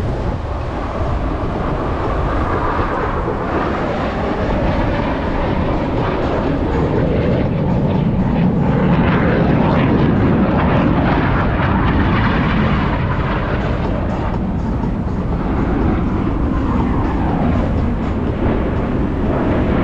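Jet noise from two Blue Angels F/A-18 Super Hornets flying the opposing inverted roll. It is a loud, continuous roar of turbofan engines that swells to its loudest about halfway through as the jets pass.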